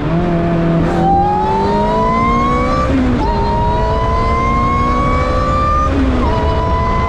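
Ariel Atom's supercharged Honda K20 engine under hard acceleration, its revs climbing steadily through each gear. Quick upshifts come about three seconds in and again about six seconds in, each dropping the revs before they climb again.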